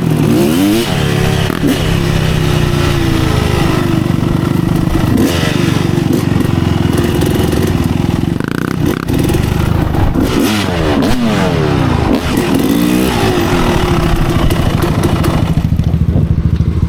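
Kawasaki KX250 dirt bike engine revving hard, its pitch climbing and dropping repeatedly as the throttle is worked along the trail, then settling to a lower, steadier run over the last few seconds.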